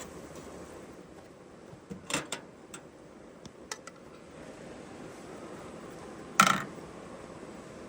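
Light clinks and knocks of cooking gear, a cluster about two seconds in and a few lighter ticks after, then one louder clank about six and a half seconds in, over a steady low background.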